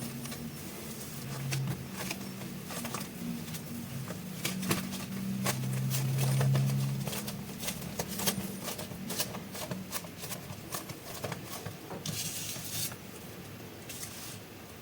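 Crisp crinkling and crackling of plastic clay packaging being handled and opened up close, with irregular sharp crackles throughout and a short rustle about twelve seconds in. A faint low hum lies underneath for the first half.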